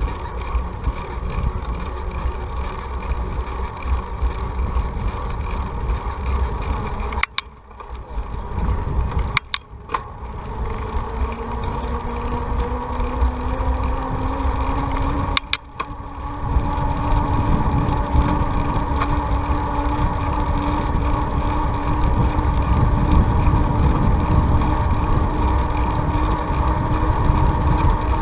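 Wind rushing over the microphone during a bicycle ride, a loud low rumble. A steady hum rises slowly in pitch partway through and then holds, and the sound cuts out briefly three times.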